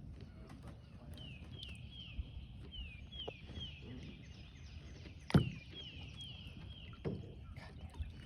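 A bird calling a run of short, high, falling chirps, about two a second. A sharp knock sounds about five seconds in, and a softer one about a second and a half later.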